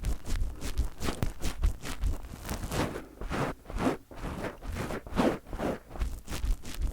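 Fingers tapping and rubbing directly on a microphone in a quick, irregular patter, each touch with a low thump. There are a couple of longer rubbing swells in the middle.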